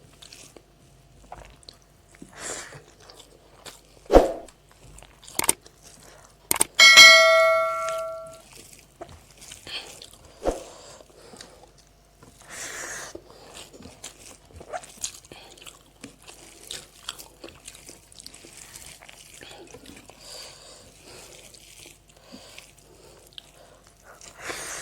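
Eating sounds: scattered clicks and knocks of dishes and utensils with chewing. About seven seconds in, a metal dish or utensil is struck and rings out, fading over a second or two.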